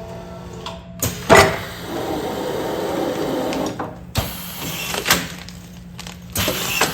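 Commercial food-container sealing machine working through a continuous run: sharp clacks about a second in and several more later on, with a stretch of steady mechanical running between them, over a constant low hum.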